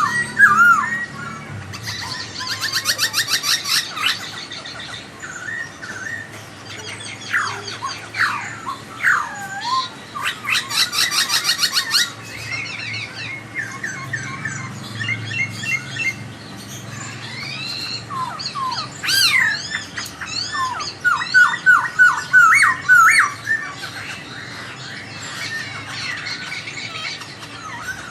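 Poksay (laughingthrush) singing: loud, varied whistled phrases that slide up and down, broken twice by bursts of fast, buzzy rattling notes, once a couple of seconds in and again a few seconds later.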